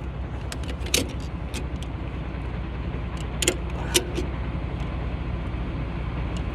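Semi truck engine idling steadily, with a few sharp clicks and clinks about a second in and again between three and four seconds in.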